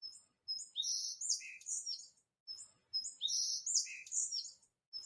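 Songbird chirping: the same short, high, warbling phrase repeated twice, each lasting about two seconds with a brief pause between.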